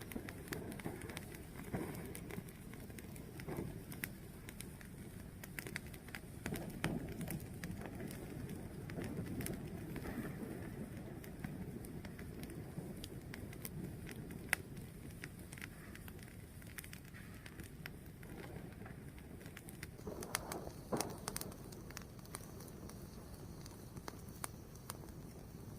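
Wood fire burning, a steady low rushing sound with scattered sharp crackles and pops.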